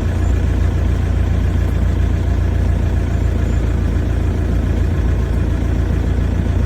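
Safari vehicle's engine running steadily with a constant low rumble.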